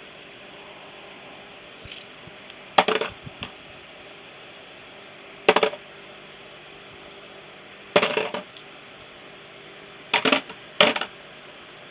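Small metal tools dropped one handful at a time into a storage tray, each making a short clinking clatter, about six times at uneven intervals of a few seconds.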